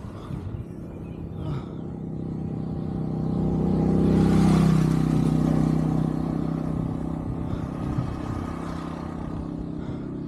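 A motor vehicle passing on the road. Its engine grows louder to a peak about four seconds in, then fades away.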